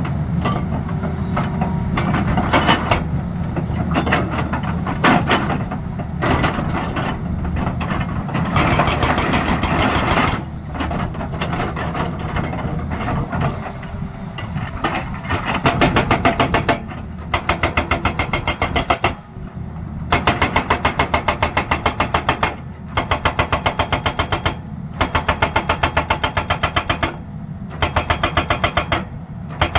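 Excavator-mounted hydraulic breaker hammering in rapid strokes, in bursts of a few seconds with short pauses between, over the excavator's diesel engine running steadily. The first several seconds are mostly the engine, with a few scattered knocks before the hammering starts.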